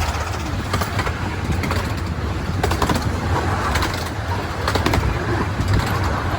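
An engine running steadily with a low hum, with scattered clicks over it.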